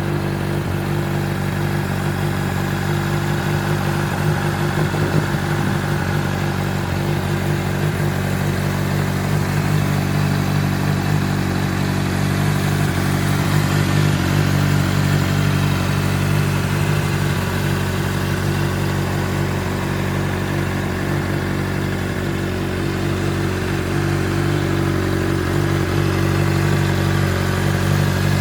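Honda CBR600RR's inline-four engine idling steadily.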